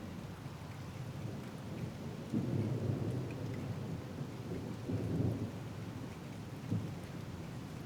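Thunder rumbling low under steady rain, swelling louder about two and a half seconds in and again about five seconds in.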